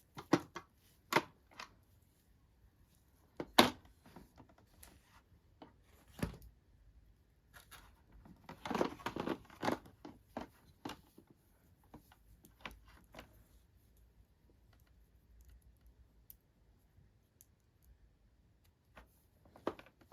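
Hands handling small toy packaging: scattered sharp clicks and taps, with a denser run of rustling and tearing about halfway through.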